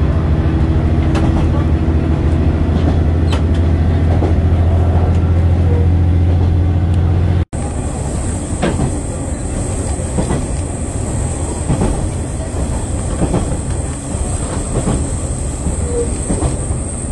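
Diesel railcar of the KiHa 40/47 type under way. For the first seven seconds or so its engine gives a strong, steady low drone. After an abrupt change it is lighter running noise with scattered rail clicks and a thin, steady high whine.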